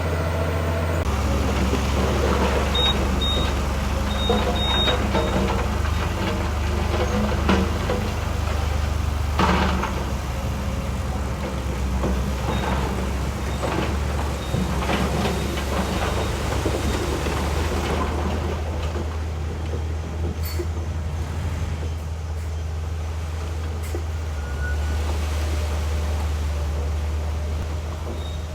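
Heavy diesel earthmoving machinery running with a steady low drone, while loose stone clatters and scrapes. The clatter is densest in the first half and thins out after about 18 seconds.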